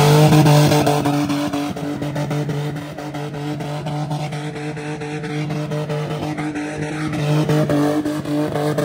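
Ford Mustang engine held at high, steady revs while the car slides sideways in a spin on the pavement. The revs climb just before and then hold at one pitch throughout.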